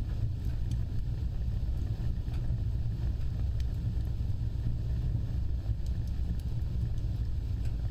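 Burning fire: a steady low rumble of flames with scattered faint crackles.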